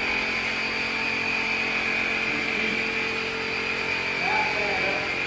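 A steady mechanical drone with a constant high-pitched whine, and faint voices near the end.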